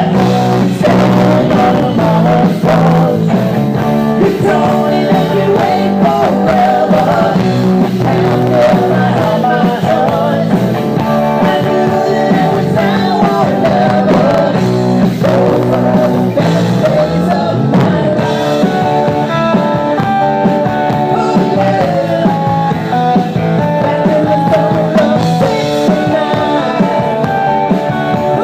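Live rock cover band playing, with electric guitar, bass, drum kit and a lead singer.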